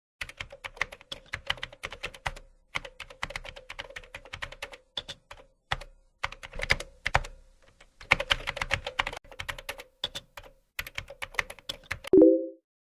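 Typing on a computer keyboard: quick, irregular runs of keystrokes broken by short pauses. About twelve seconds in, a short tone of about half a second sounds, louder than the typing.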